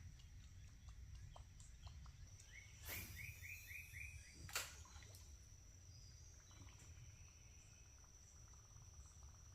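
Quiet outdoor ambience: a bird gives a quick run of about six short rising chirps a few seconds in, over a steady high-pitched tone, with one sharp click just after.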